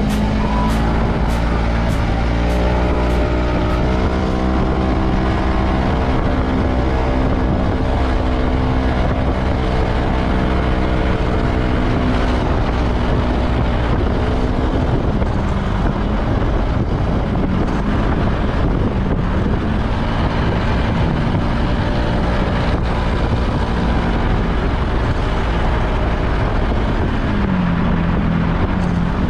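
Yamaha Majesty S scooter's single-cylinder engine running steadily under way, its CVT fitted with Dr. Pulley weight rollers, with a heavy rush of wind noise. The engine note drops briefly and climbs again a couple of times, once near the end.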